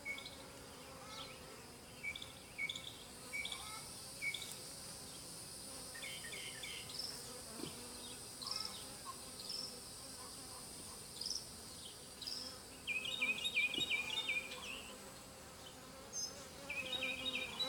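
Honeybees buzzing around an opened hive, a faint steady hum. Short high chirps come and go over it, with a longer trill about two-thirds of the way through and another near the end.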